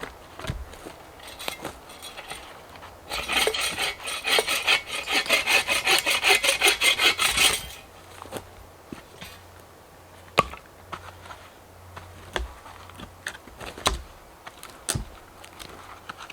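Hand saw cutting through firewood in a quick run of rhythmic strokes that starts about three seconds in and lasts about four and a half seconds. Afterwards, scattered sharp knocks.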